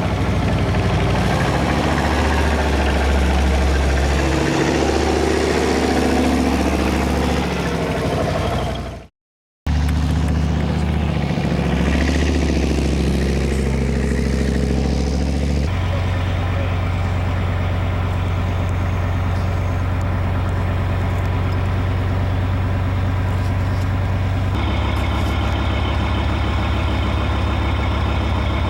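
Diesel engine of a Beaver armoured bridge layer, built on the Leopard tank chassis, running steadily with a heavy low note while it works. The sound drops out briefly about nine seconds in, and the engine note changes abruptly twice later on.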